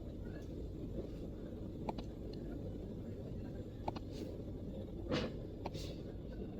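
A few scattered MacBook keyboard keystrokes, single sharp clicks a second or two apart, over a steady low background rumble, with two short swishes near the end.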